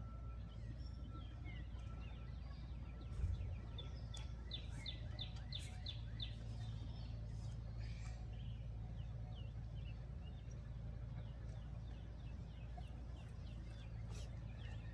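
Small birds chirping in quick runs of short repeated notes, twice, over a steady low rumble, with one dull thump about three seconds in.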